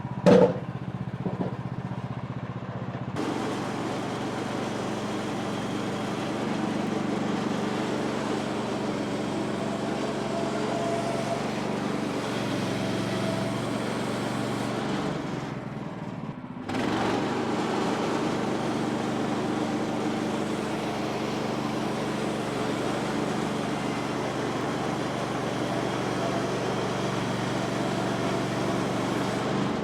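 Woodland Mills HM126 portable bandsaw mill running steadily, its engine under load as the blade cuts through a log. There is a sharp knock just after the start, and the cutting noise thins out briefly about halfway through before picking up again.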